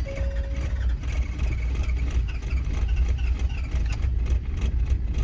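Cold-soaked diesel pickup engine running rough and uneven as it struggles to keep going after a hard start in sub-zero cold.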